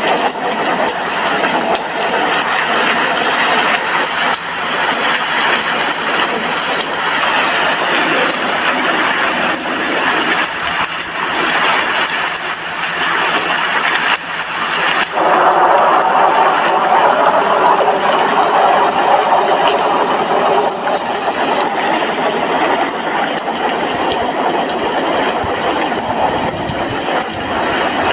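Rain heard from an apartment window: a dense, steady hiss that grows louder about halfway through.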